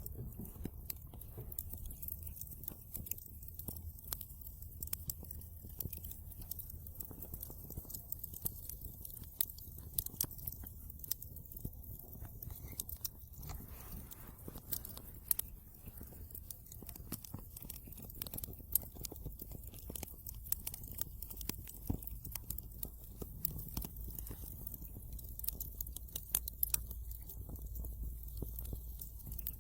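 Wood fire crackling in a fireplace: a dense, irregular run of small snaps with occasional louder pops, over a low steady rumble.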